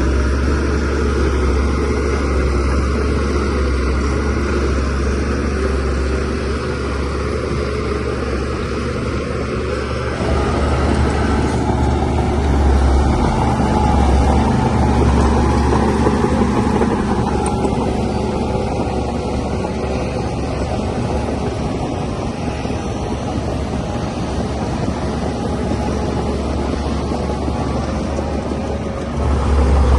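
DH17C3PRO crawler bulldozer's diesel engine running steadily while working, growing louder about ten seconds in and again just before the end.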